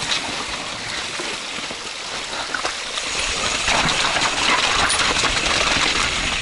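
Mountain bike riding down a wet, slippery dirt trail: tyres on the mud, the bike rattling over the ground and wind rushing on the microphone, louder from about three and a half seconds in.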